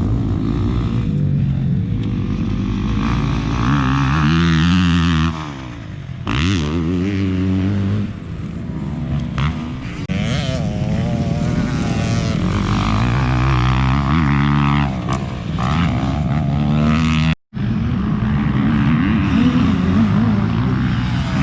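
Dirt bike engine revving and running, its pitch climbing and falling repeatedly as it accelerates and backs off. The sound drops out for an instant about 17 seconds in.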